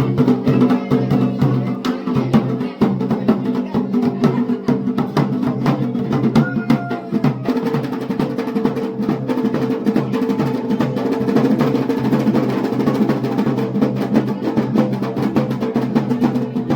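Traditional Garhwali drumming for a mandan, most likely dhol and damau: rapid, continuous drum strokes over a steady droning tone.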